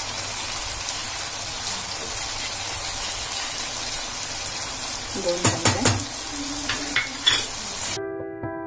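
Onion-tomato masala sizzling in hot oil in a kadai, with red chilli powder just added. A steel spatula scrapes and knocks against the pan a few times past the middle as it is stirred in. Near the end the sizzle cuts off abruptly into piano music.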